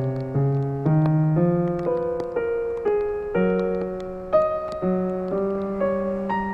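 Slow, gentle solo piano music, single notes struck about every half second and left to ring and fade.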